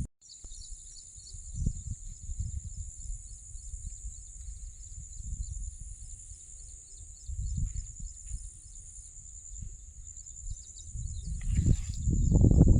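Insects chirring steadily in a high, fast-pulsing band, over a low uneven rumble that grows louder near the end.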